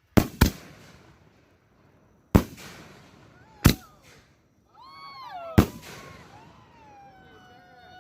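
Consumer fireworks going off: five sharp bangs, two close together right at the start, then single ones about 2.4, 3.7 and 5.6 seconds in. Over the second half a high whistle wavers up and down, then holds a steady pitch.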